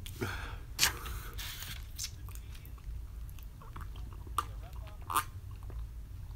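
Close-up chewing and wet mouth sounds of a person eating instant ramen noodles, loudest in the first two seconds. About four seconds in, he drinks from a foam cup, with a couple of short, sharp gulps.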